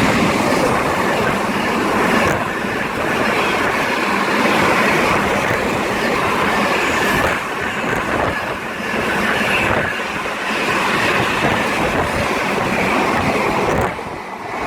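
Freight train behind a Class 70 diesel locomotive passing through at speed: the wagons rolling by with a steady heavy rumble and wheel noise, dying away about fourteen seconds in.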